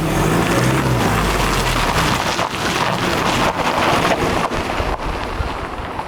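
Ford Transit tipper van driving: its engine runs under a steady rush of road and wind noise buffeting the microphone.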